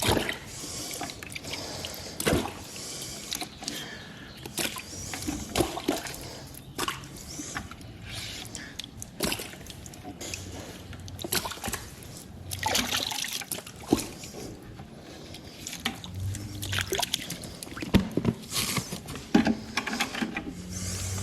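Water sloshing, splashing and trickling with irregular knocks and thumps: a bucket of water and live fish being tipped into a cooler.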